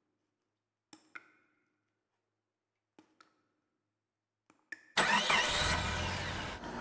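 A few short knocks, then about five seconds in a truck engine starting up and running loudly.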